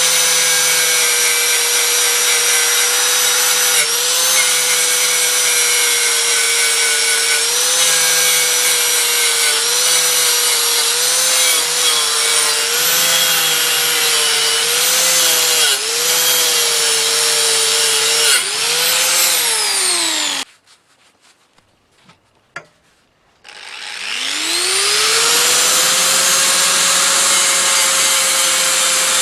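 Electric grinder with a rotating polishing brush running at speed, its whine dipping in pitch briefly several times. About two-thirds of the way through it is switched off and winds down to silence; after a click it is started again and spins back up to a steady whine.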